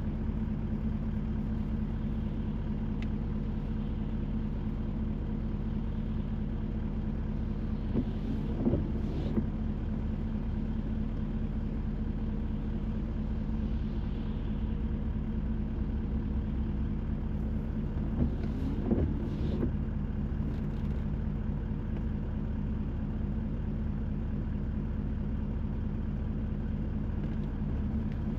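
Car cruising steadily, heard from inside the cabin: a constant low engine and road hum with tyre hiss on a rain-wet road. Twice, about a third and about two thirds of the way through, there is a pair of brief swishes.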